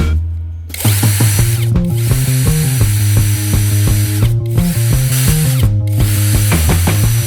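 A power tool running with a steady high whir that starts about a second in and cuts out briefly three times, over background music with a steady bass line.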